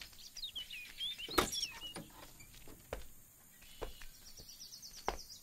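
Birds chirping in quick, high, twittering calls over the first two seconds or so, with a few sharp knocks about a second and a half in, near three seconds in and near the end.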